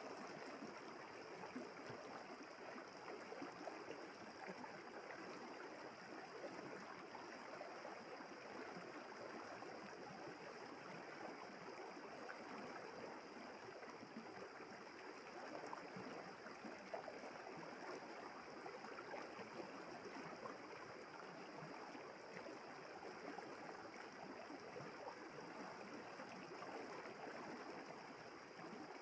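A river running and babbling over its bed, a steady, even water sound, with a steady faint high hiss above it.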